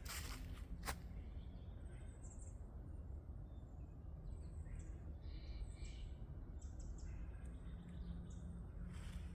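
Two footsteps in the first second, then small birds giving short, high chirps and calls on and off over a steady low background rumble.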